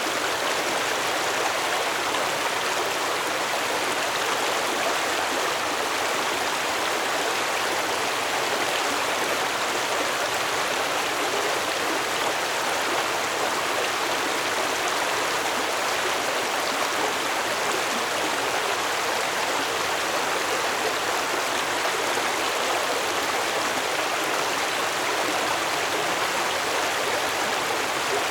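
Stream water flowing steadily, an even rushing and babbling with no change in level.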